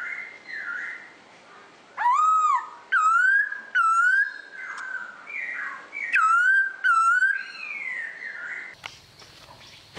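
A bird calling with loud, clear whistled notes, each dipping and then rising, about five of them roughly a second apart, with softer sliding notes between. Near the end the calls stop, and a faint low hum and a few clicks are left.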